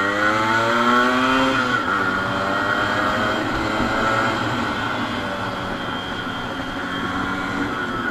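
Modified Yamaha RX100 two-stroke single-cylinder engine under way. It revs up, then its pitch drops sharply about two seconds in as the rider shifts gear, and it carries on at a steadier pitch.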